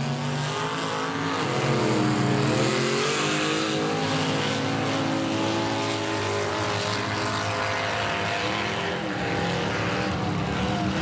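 Drag-racing pickup truck's engine running hard through a pass, its pitch wavering up and down over a loud haze of noise.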